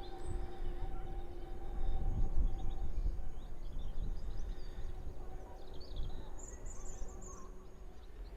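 Outdoor ambience: wind buffeting the microphone in gusts, a steady hum that fades out about three seconds in, and birds chirping briefly about six and a half seconds in.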